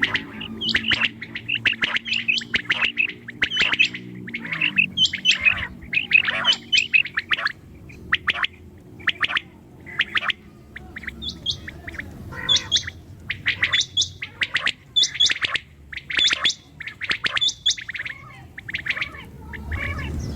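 Common quail calling: a rapid, repeated series of short, high chirping notes in quick clusters, going on without pause.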